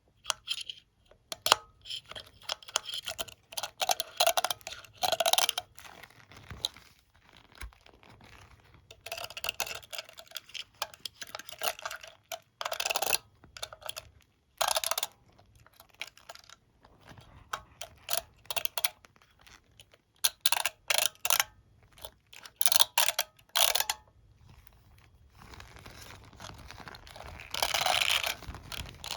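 Comb and hairbrush handled close to the microphone: scratching and rubbing over the bristles and teeth, with light clicks, in irregular bursts with short pauses between them.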